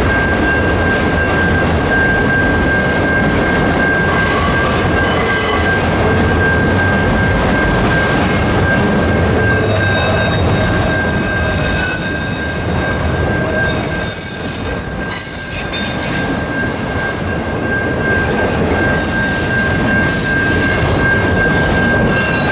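Freight train of autorack cars rolling past at a level crossing: steady rumble and clatter of wheels on rail, with high wheel squeal near the middle. A level-crossing warning bell rings steadily over it as one high, constant tone.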